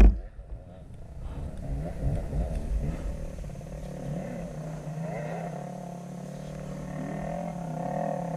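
Dirt bike engine running, its pitch wavering up and down with small changes of throttle.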